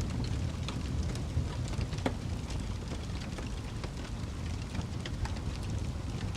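Crackling fire: a steady low rumble of flames with irregular pops and snaps, the sharpest about two seconds in.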